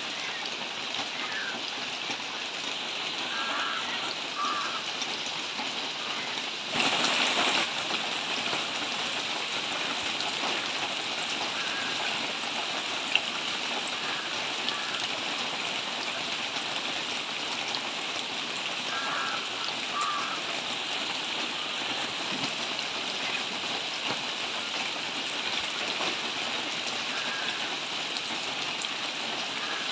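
Steady rainfall on leaves, an even hiss with a few sharp drip ticks. A brief louder rush lasts about a second, about a quarter of the way in.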